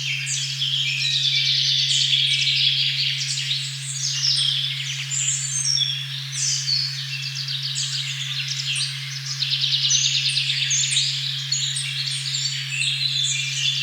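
A steady, unbroken low tone at 136.1 Hz drones under a busy dawn-chorus-like forest recording, with many birds chirping and trilling at once in high, overlapping phrases.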